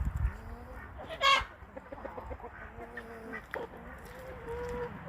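Hens clucking softly, with one short, loud call from the flock about a second in.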